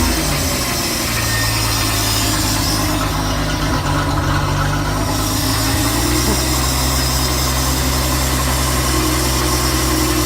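Carbureted 4.3-litre MerCruiser V6 boat engine idling, settling to a steady idle about a second in and then running evenly.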